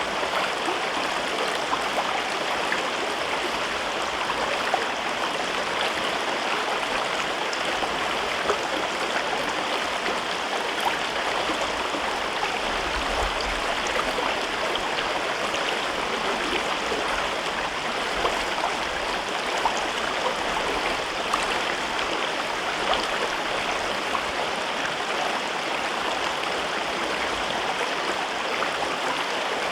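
River water flowing over rocks in a gorge: a steady babbling rush with small splashes scattered through it.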